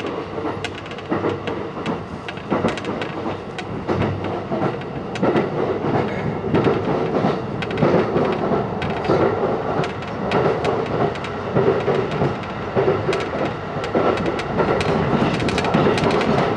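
JR passenger train running, heard from inside the carriage: a steady rumble with frequent clicks of the wheels over the rails. It grows gradually louder as the train picks up speed.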